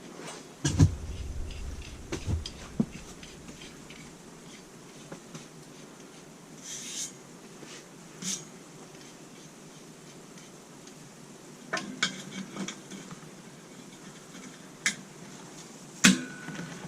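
Scattered metallic clanks and knocks of steel parts and tools being handled, with a heavier thud about a second in and a few sharp clinks spread through the rest.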